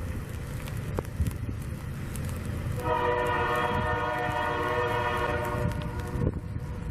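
Diesel locomotive's air horn sounding one long blast of about three and a half seconds, several tones at once, starting about three seconds in, over a steady low rumble.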